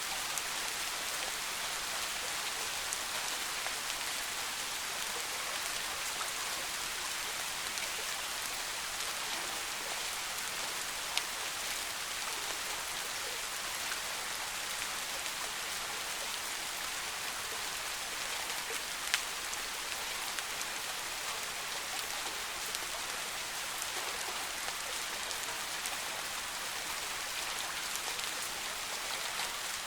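Steady soft rain falling in a forest, an even hiss with scattered individual drops ticking, a couple of sharper drop hits standing out about 11 and 19 seconds in.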